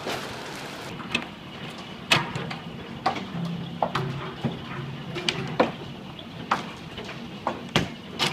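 Hailstones striking hard surfaces in a heavy hailstorm: about a dozen sharp, irregular cracks over a steady hiss.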